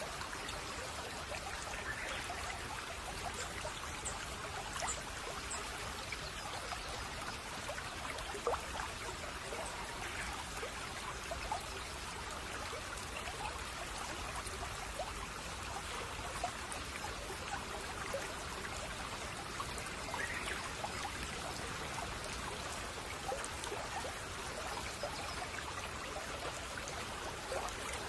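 Babbling brook: a steady trickling and splashing of running water, with a few faint high chirps now and then.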